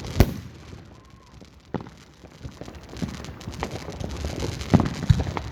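Fireworks going off on several sides: a loud sharp bang just after the start, then scattered booms with crackling between them, and two more bangs close together near the end.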